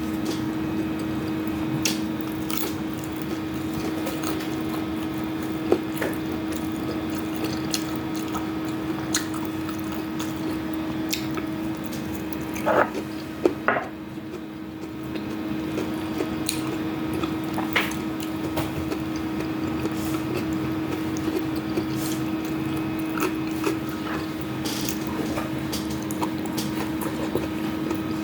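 Close-miked eating sounds: wet chewing and squishing of food with scattered sharp clicks, over a steady low hum. A short cluster of louder knocks comes about halfway through.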